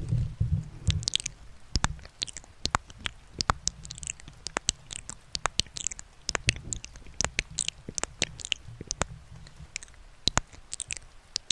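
Close-miked ASMR mouth sounds: irregular wet clicks and smacks, several a second, over a low rumble.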